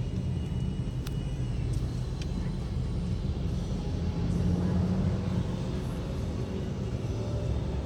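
Steady low rumble of a vehicle travelling along a city road, with a faint click about a second in.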